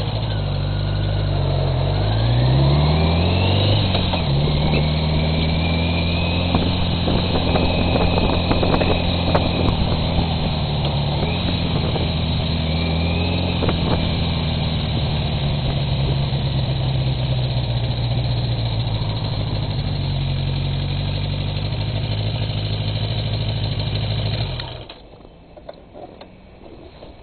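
Motorcycle engine rising in pitch as it accelerates over the first few seconds, then running steadily. About 24 seconds in it cuts off suddenly, the engine switched off.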